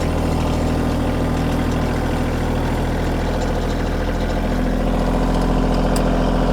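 Kioti compact tractor's diesel engine running steadily at low revs, its note stepping up slightly about two-thirds of the way in.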